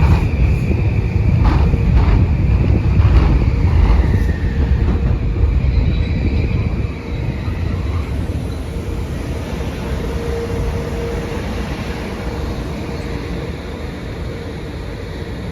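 Metro-North commuter train running past, its wheels clacking in a quick series over the first few seconds under a heavy rumble. About seven seconds in the rumble drops and then fades as the train moves away.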